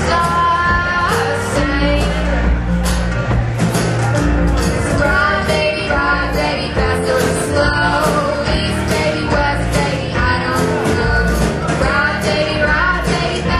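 Live band performing a song: a woman singing over guitar, bass and drums, with a steady beat.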